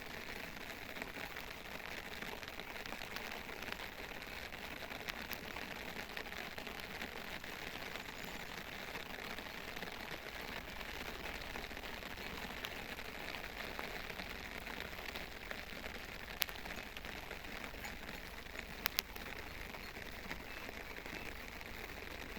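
Steady rain falling, a dense patter of drops, with a few sharper drop taps in the last third.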